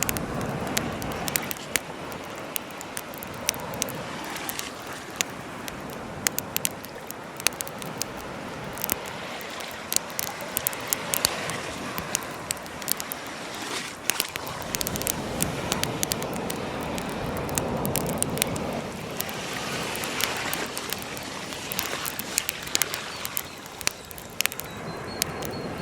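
Wood campfire crackling and popping, many sharp snaps over a steady hiss, with a rushing noise of surf that swells and fades every few seconds.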